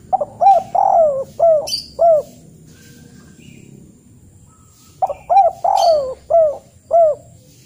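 A bird calling in two phrases of about five short notes each, the second phrase about three seconds after the first ends.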